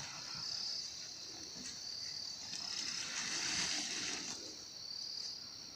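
Crickets chirping in a continuous high-pitched chorus, with short chirps repeating over a steady trill.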